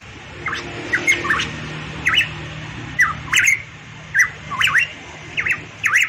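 Variable pitohui calling over and over: short, sharp notes that swoop quickly up and down in pitch, often in quick pairs or threes, about every half second to a second.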